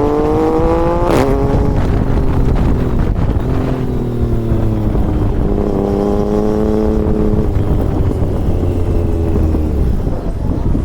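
Motorcycle engine under way, its pitch rising then breaking off at a sharp click about a second in, and rising and holding again from about four to seven seconds, over a steady low rumble.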